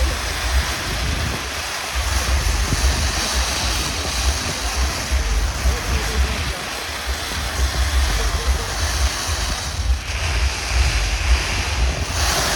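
Wind buffeting the microphone, with uneven low rumbling over a steady rushing hiss.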